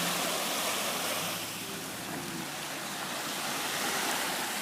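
Steady wash of waves and wind, easing slightly after about a second.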